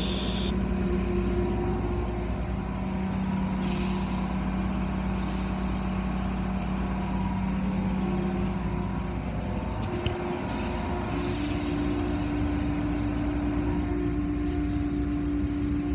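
Car wash machinery running: a steady motor hum that changes pitch partway through, with several short bursts of hissing spray or air.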